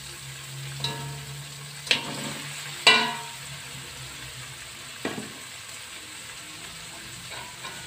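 Spice mix of chillies, shallots and petai sizzling in a metal wok as fried tongkol fish are tipped in from a slotted skimmer. Four sharp metal clanks of the utensils against the wok cut through the sizzle, the loudest about three seconds in.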